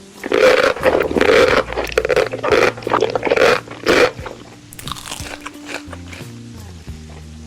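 Loud crunching of crispy food being bitten and chewed close to the microphone, about eight crunches in the first four seconds, then softer chewing. Background music with held notes plays underneath.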